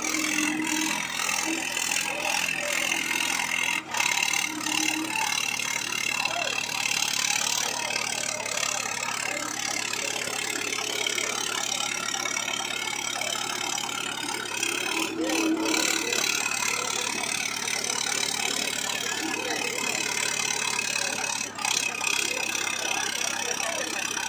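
Diesel tractor engines running steadily while two tractors pull against each other in a tug-of-war, with people's voices mixed in.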